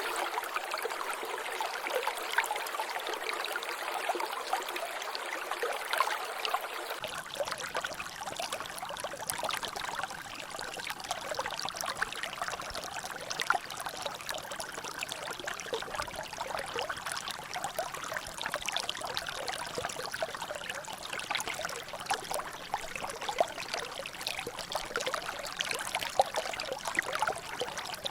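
Water trickling and dripping, a steady wash of running water dotted with many small drop splashes. The sound changes character slightly about seven seconds in.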